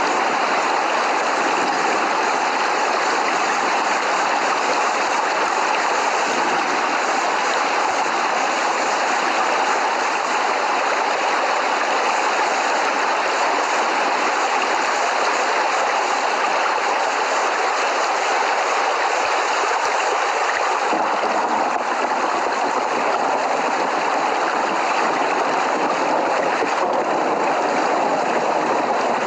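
Steady rain, an even hiss with no thunder claps. About two-thirds of the way through, it turns slightly deeper.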